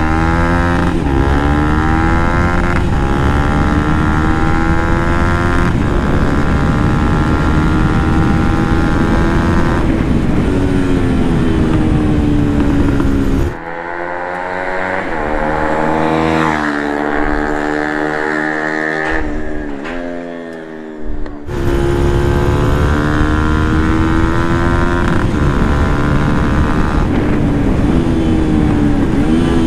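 Bajaj Pulsar NS200's single-cylinder engine running through a full-system Akrapovic exhaust with its dB killer fitted, as the bike is ridden. The pitch climbs under acceleration and drops back at each gear change. Partway through, the sound changes sharply for several seconds, then the revving resumes.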